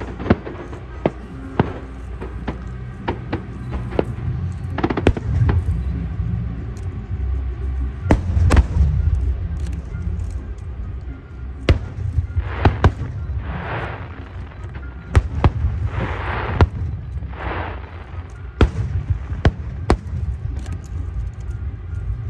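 Aerial fireworks display going off: many sharp bangs and booms over a continuous low rumble, with a few longer crackling hisses about halfway through. Music plays underneath.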